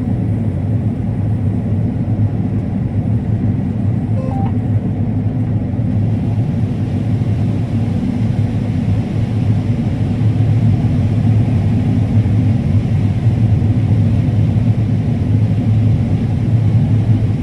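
Combine harvester running steadily while harvesting corn: a loud, continuous low drone.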